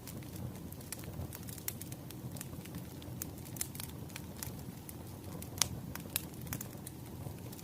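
Campfire crackling: a steady low hiss of burning with irregular sharp pops and snaps, one louder pop a little past halfway.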